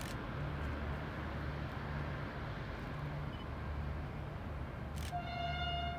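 Low rumble of a V/Line VLocity diesel multiple unit moving away, swelling and fading. About five seconds in, a single horn blast, one steady note held for about a second.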